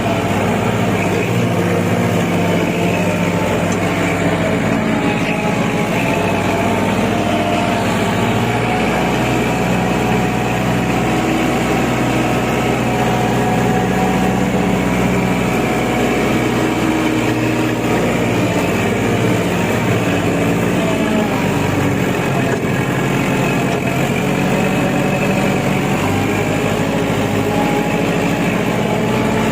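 Kubota L5018 tractor's diesel engine running steadily, its pitch shifting slightly now and then.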